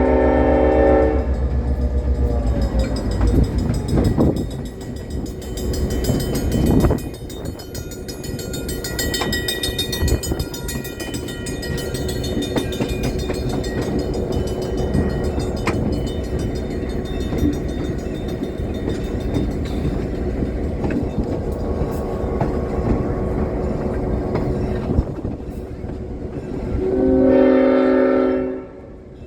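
Belton, Grandview and Kansas City Railroad train running, its horn sounding a chord that cuts off about a second in, then the steady rumble and clatter of the wheels on the rails, and the horn blowing again near the end.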